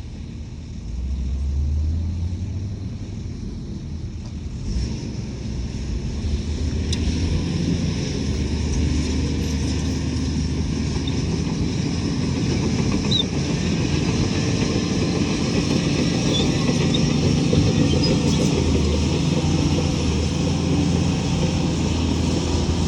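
Heavy diesel engine of earthmoving machinery running steadily with a low drone, growing louder over the first couple of seconds.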